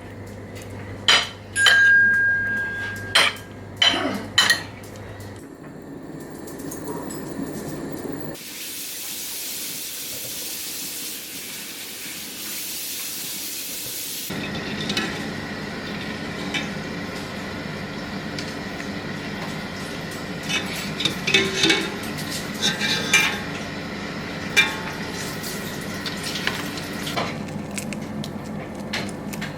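Kitchen sounds: utensils clinking and knocking against dishes and pans, with a short beep about two seconds in. A steady hiss runs for about six seconds in the middle, followed by a steady low background with more clinks.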